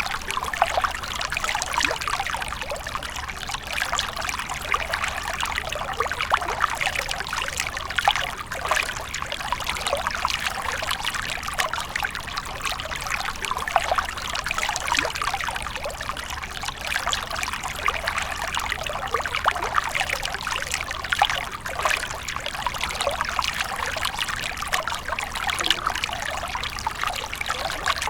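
Water fountain splashing and trickling steadily: a dense, even patter of small splashes that never lets up.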